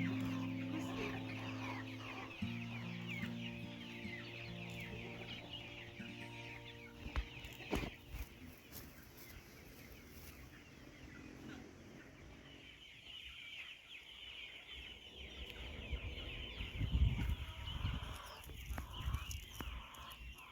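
Chickens clucking and chirping, over soft background music that fades out in the first several seconds. A couple of knocks come partway through, and low thumps near the end.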